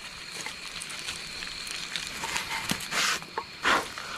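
Campfire crackling and hissing, with scattered small pops throughout and a few louder short rustling bursts near the end.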